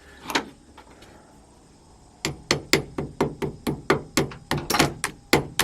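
A hand tool working on metal: sharp, regular clicks or knocks at about four a second, starting about two seconds in, while a battery cable is being fastened to its terminal.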